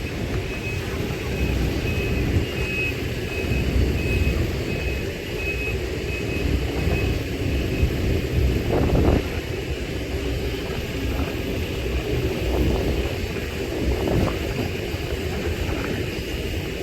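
Heavy diesel machinery running steadily, with a warning alarm beeping about twice a second for the first six seconds.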